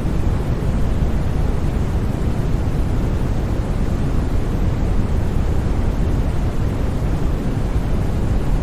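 Steady, unbroken white noise played for sleep, its energy weighted toward the deep end so it sounds like a low, even rushing hiss with no changes or sudden sounds.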